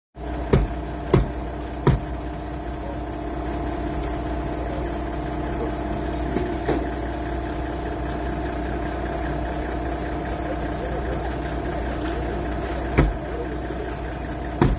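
Toyota Land Cruiser HDJ100's diesel engine idling steadily. Sharp clicks or knocks come over it, three in the first two seconds and two more near the end.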